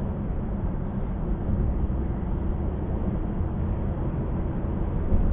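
Steady road noise inside a moving car: engine and tyres running on the highway, a low rumble with no change in pace.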